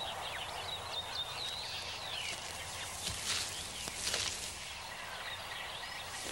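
Birds chirping: many short calls sliding up and down in pitch over a steady outdoor background hiss.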